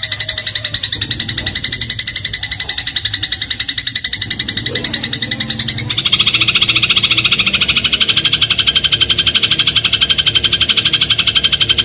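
Eurasian tree sparrow (burung gereja) in the rapid 'crot' chatter, a fast, even stream of sharp chirps. About six seconds in the chatter drops lower in pitch and grows fuller.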